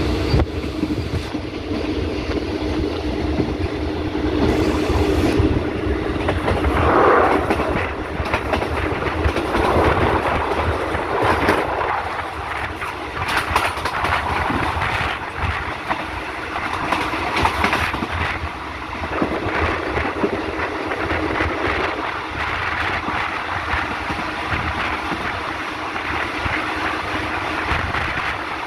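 Passenger train in motion, heard from on board: a steady running noise with wheels clattering over the rail joints.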